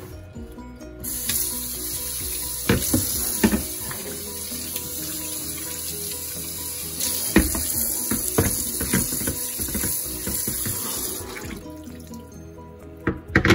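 Tap water running into a kitchen sink as a stainless steel skillet is rinsed under it, with a few knocks and clatters of the pan being handled. The water starts about a second in and stops about two seconds before the end.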